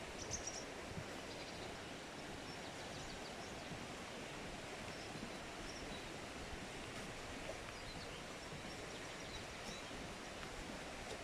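Steady rush of spring-fed stream water flowing along its channel, with a few faint high chirps over it.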